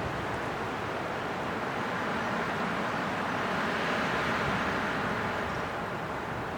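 Steady winter wind blowing, an even rushing that swells a little in the middle.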